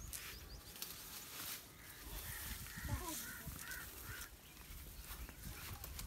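Faint bird calls: a short run of quick chirps about halfway through. Occasional brief rustles, as of dry palm fronds being brushed, come and go.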